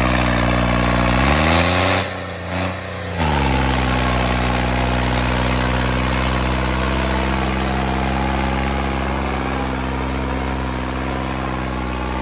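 New Holland 3630 tractor's three-cylinder diesel engine running steadily. Its pitch rises about a second in, the sound dips and breaks up for about a second, then it settles back to an even run.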